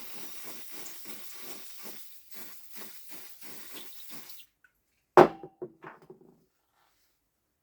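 Cleaning parts of a robotic mower's wheel motor: a rhythmic rubbing hiss at about four strokes a second, like a rag wiping a greasy part, stopping after about four seconds. About five seconds in, a single sharp clank with a brief ring as a metal part or tool is set down.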